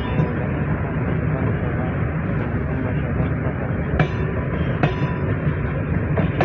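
Arriving passenger train hauled by a General Motors diesel locomotive, with a steady rumble of engine and wheels on rail. Sharp clicks of wheels over rail joints come about four and five seconds in.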